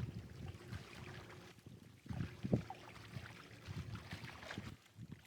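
A kayak fitted with homemade outrigger stabilizers, out on the water: irregular sloshing and splashing around the hull, with small knocks and low rumbles.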